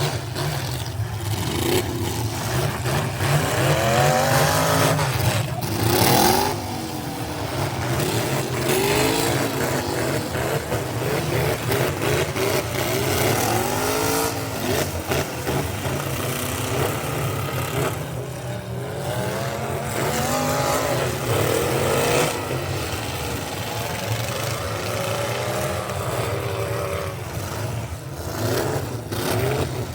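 Truck engines running hard and revving up and down over and over, the pitch rising and falling every couple of seconds over a steady low rumble.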